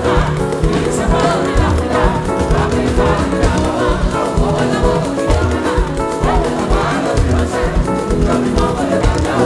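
Choir singing a Yoruba gospel hymn over accompanying music with a steady beat.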